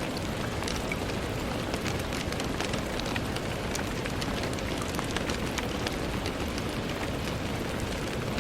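Steady rain on a window, a constant wash of rainfall with many small, irregular drop taps on top.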